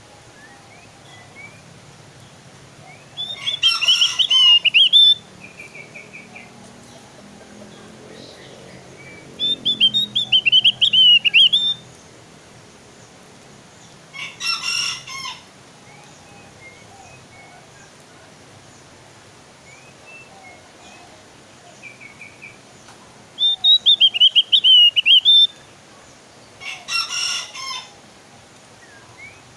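Javan opior (Javan grey-throated white-eye) singing: three loud bouts of rapid, high, warbling notes about two seconds each, separated by shorter harsh chattering calls and a few soft chirps.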